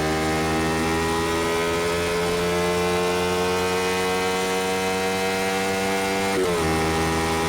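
A 2005 Honda XL125V Varadero's 125cc V-twin, fitted with an aftermarket BlackWidow exhaust, pulling under way with its revs climbing slowly. About six and a half seconds in, the revs briefly dip in a gear change, then the engine holds steady at a slightly lower pitch.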